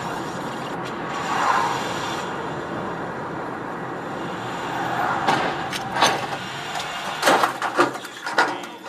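Steady vehicle and road noise, as from a dashcam in a moving car. In the second half it is broken by several sharp knocks and bangs.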